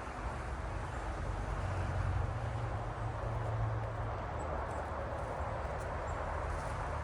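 Steady low rumble and hiss of background noise, with a couple of faint, short high bird chirps about four and a half and six seconds in.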